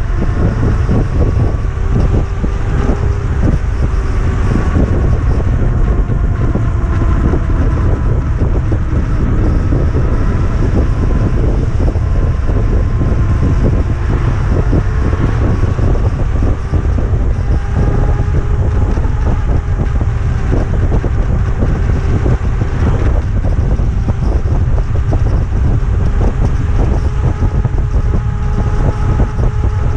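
Electric e-bike hub motor, a 3000 W hub driven by a Fardriver ND72260 controller, whining under way, its pitch drifting up and down with speed. Heavy wind rumble on the microphone runs under it, with frequent small knocks and rattles from the bike.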